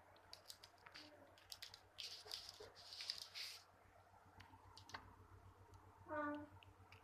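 A dog eating: faint scattered clicks and crunching, louder about two to three and a half seconds in, with a brief pitched sound near the end.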